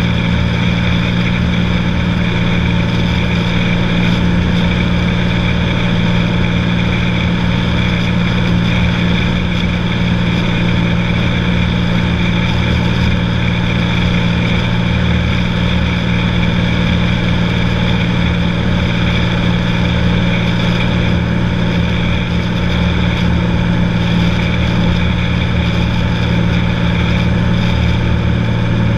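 Cessna 182's piston engine and propeller droning steadily in flight, holding an even pitch and level throughout.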